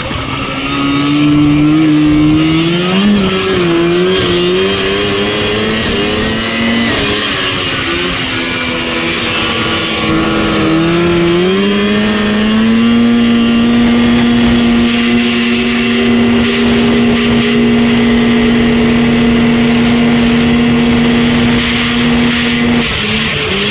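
Rotax 503 two-stroke twin snowmobile engine running under throttle: revs rise and fall for the first dozen seconds, then hold steady for about ten seconds and drop off near the end. A thin high whine rises in pitch over the second half.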